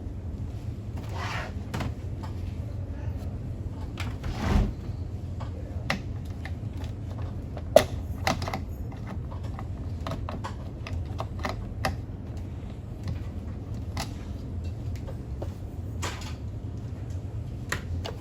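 Scattered clicks and knocks of plastic parts and tools being handled during a coffee machine's disassembly, over a steady low hum, with a louder knock about four and a half seconds in and one sharp click near eight seconds.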